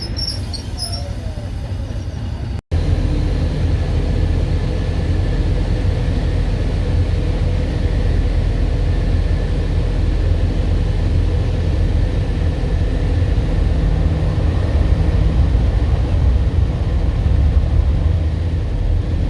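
Heritage diesel locomotive engine running steadily, a heavy low rumble with a faint steady whine above it. There is a short break in the sound about three seconds in.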